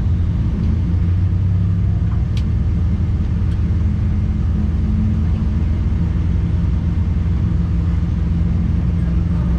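Truck running at a steady pace, a continuous low rumble of engine and road noise with no change in pitch.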